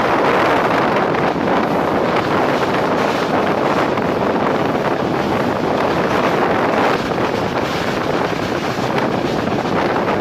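Steady rush of wind and running noise from a passenger train moving at speed, heard on board, with wind buffeting the microphone.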